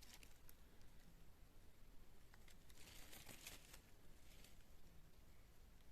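Near silence with faint rustling, a little louder for about a second near the middle.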